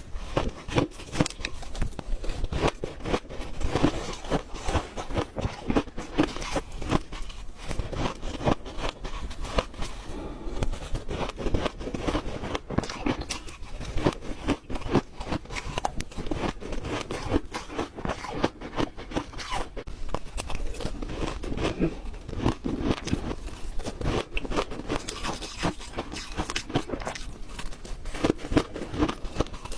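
Ice being chewed up close: a continuous run of sharp crunches, several a second, with no break.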